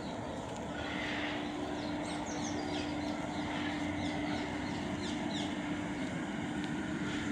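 A steady mechanical drone holding one constant low pitch over a low rumble, with small birds chirping in quick falling notes from about two to five and a half seconds in.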